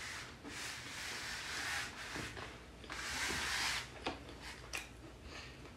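Chewing crispy fried chicken with the mouth close to the microphone: two crunchy, crackling stretches of a second or two each, then a few small clicks.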